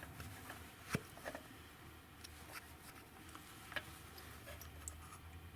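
A few faint, light clicks and taps of small metal engine parts being handled and turned over, the loudest about a second in.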